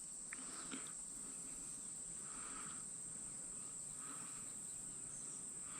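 Steady, high-pitched drone of insects, crickets or similar, in an otherwise quiet outdoor scene, with a few faint soft sounds underneath.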